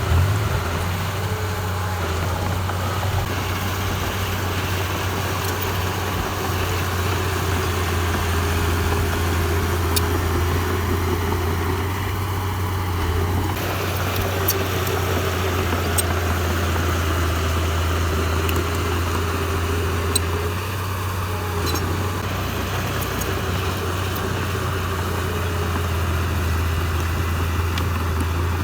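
Heavy-equipment diesel engine running steadily at a constant low speed, with a few faint clicks.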